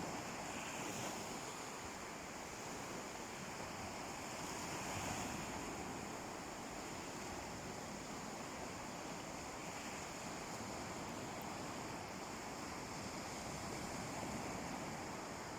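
Sea waves washing onto a beach: a steady surf wash that swells gently every four to five seconds.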